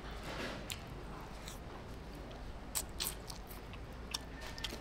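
A person chewing and biting into tender meat, with scattered small clicks.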